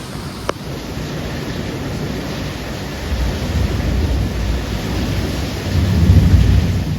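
Steady hiss of heavy rain in a thunderstorm, with low rumbles that swell about three seconds in and more strongly near the end. There is one brief click about half a second in.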